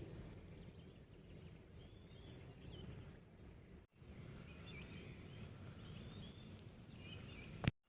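Faint chirps and twitters of small birds over a steady low outdoor rumble, cut off briefly midway, with a sharp click near the end.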